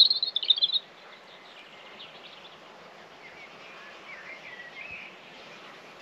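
Wild birdsong: a short burst of rapid, high chirping notes in the first second, then fainter, lower warbling calls a few seconds in, over a steady outdoor hiss.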